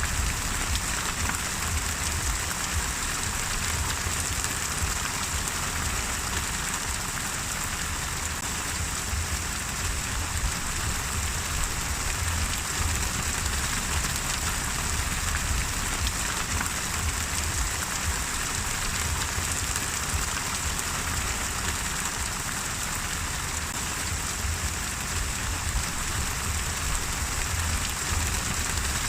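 Steady, even rain falling on a surface, with a constant hiss of drops and a low rumble underneath.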